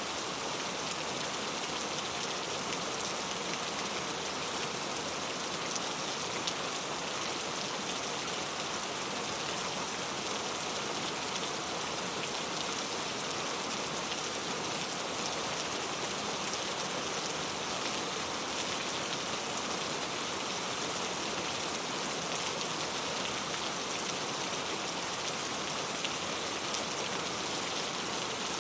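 Steady rain falling, a dense even hiss of drops with fine scattered patters and no change in intensity.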